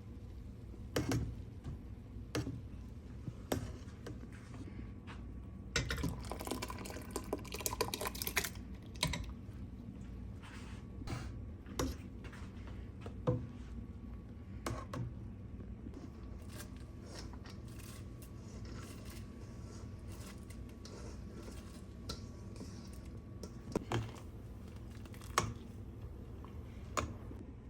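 Light clicks and knocks of kitchen things being handled, irregular and scattered, with a dense clatter about six to eight seconds in, over a steady low hum.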